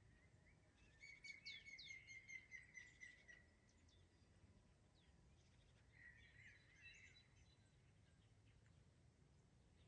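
Faint songbird singing in a forest at dusk: a rapid run of repeated notes about a second in, lasting a couple of seconds, then a shorter warbled phrase a few seconds later, over low steady background noise.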